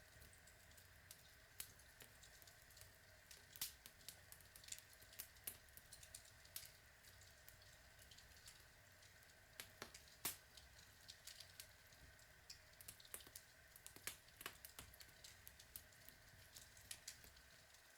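Outdoor log fire crackling: irregular small snaps and pops over a faint steady hiss, with a few louder pops scattered through.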